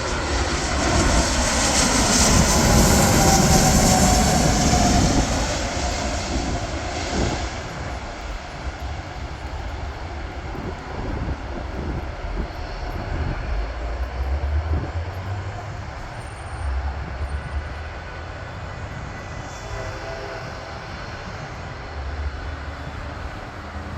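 Landing jet aircraft passing close, its engine noise loudest a few seconds in with a whine falling in pitch, then fading to a lower rumble as it moves away.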